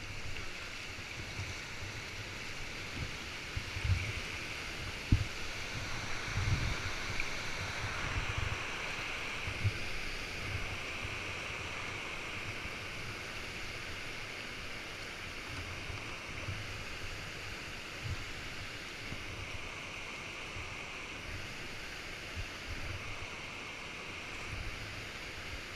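Steady rush of flowing river water, with irregular low thumps and buffets from wind on the microphone.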